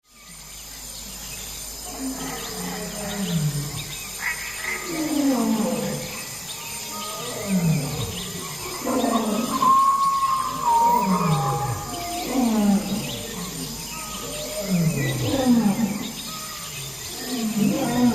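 Tiger roaring and growling over and over, a run of calls that each fall in pitch, about one every second or two.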